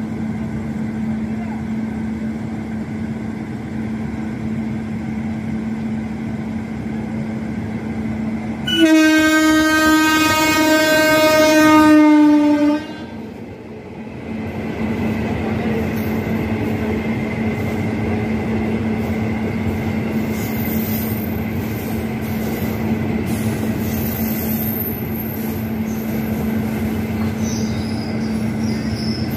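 WAG-9 electric locomotive sounding one loud horn blast of about four seconds as it passes, falling slightly in pitch and cutting off sharply. Passenger coaches then roll past with a steady rumble and wheel clatter, with faint high wheel squeals in the later part.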